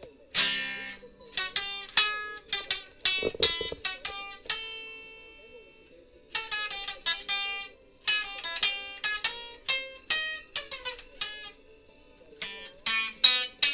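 Instrumental break on a plucked acoustic string instrument: single picked notes and short runs, with no singing. The playing stops briefly a few times, about midway, around eight seconds in and again near the end.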